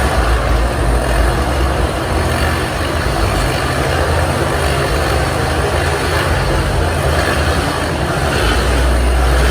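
Several motorcycle engines running together inside a steel globe-of-death cage, a steady loud engine noise with a heavy low rumble.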